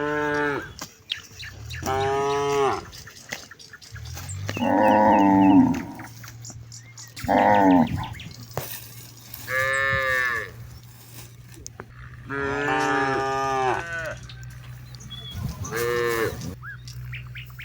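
Cattle mooing again and again: about seven separate calls, each a second or two long and at differing pitches, the longest and loudest coming about four seconds in. A steady low hum runs underneath from about four seconds in.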